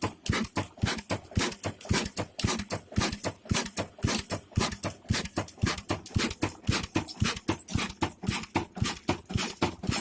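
Slow-speed single-cylinder 'Kala' diesel oil engine running steadily, with an even, sharp knocking beat of about five a second.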